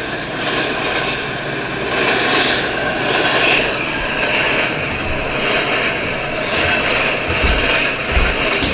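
Freight train rolling past: a steady rumble of cars and wheels on the rails, with a few low thumps near the end.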